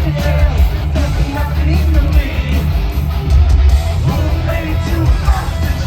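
Heavy metal band playing live at high volume: distorted electric guitars over heavy bass and drums, with singing over the music.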